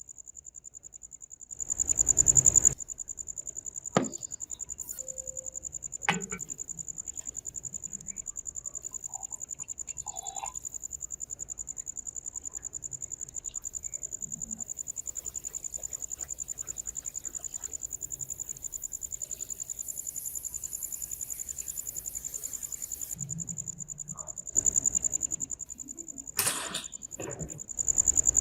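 A cricket trilling steadily at a high pitch, interrupted by a few short bursts of hissing noise and some sharp clicks and knocks.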